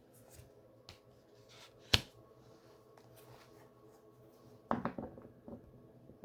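Quiet handling of tarot cards: a few soft taps and clicks, with one sharp click about two seconds in and a short rustle near five seconds, over a faint steady hum.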